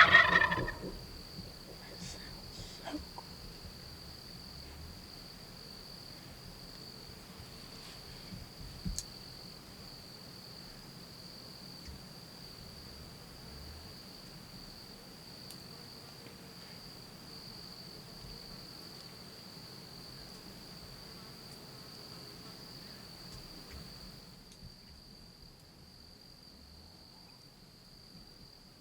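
Steady high-pitched drone of insects singing without a break. There is a brief loud burst right at the start, then a few faint clicks. The low background quietens near the end while the insect drone carries on.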